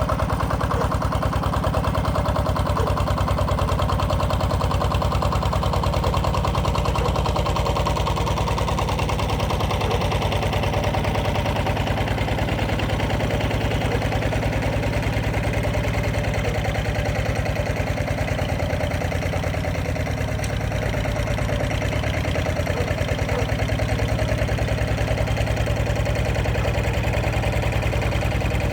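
Walking tractor's single-cylinder diesel engine running steadily with an even chugging pulse, powering a hydraulic log splitter.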